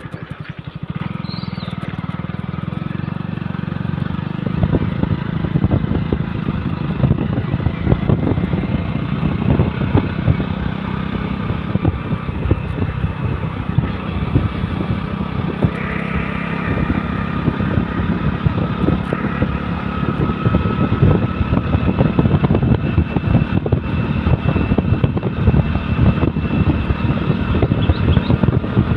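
A motor vehicle engine running steadily with a rough low rumble, getting louder about a second in.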